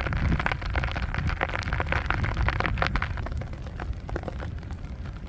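Plastic tarp rustling and crackling in irregular bursts while rope is tied off to it, busiest in the first three seconds and thinning toward the end, over a steady low rumble of wind on the microphone.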